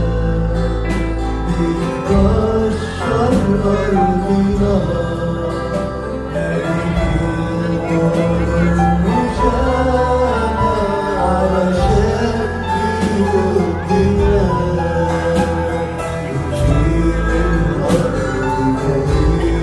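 Group singing a song with instrumental backing, with strong bass and guitar.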